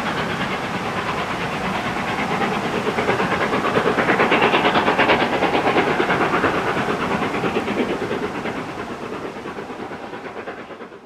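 Steam locomotive passing with its exhaust beating in a quick, even rhythm, along with the rumble of the train on the rails. The sound grows a little about four seconds in, then fades steadily as it moves away.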